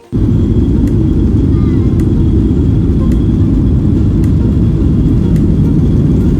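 A loud, steady low rumble of noise with no tone in it, starting and cutting off abruptly.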